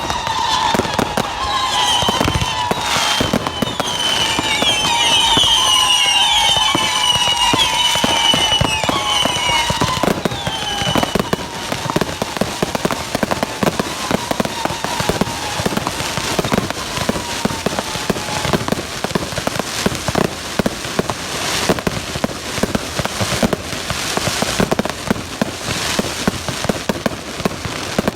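A fireworks display going off in quick succession. For about the first ten seconds several shrill whistles sound at once over the bangs, each falling slightly in pitch; after that, dense rapid crackling and bangs go on.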